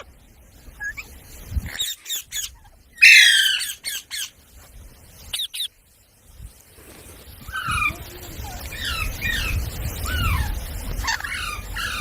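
Parrot calling: one loud, harsh squawk about three seconds in, followed in the second half by a run of short, falling chirps.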